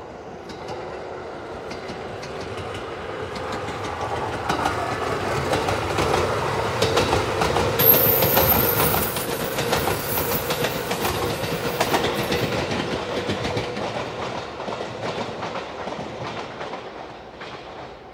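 JR 213-series electric train passing close by, its wheels clacking over the rail joints. The sound swells to its loudest about eight seconds in, then fades as the train moves off down the line.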